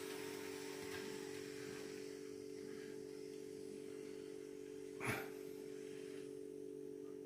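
Small electric motor of an N gauge model train humming steadily as it runs round the layout. A short sharp noise about five seconds in.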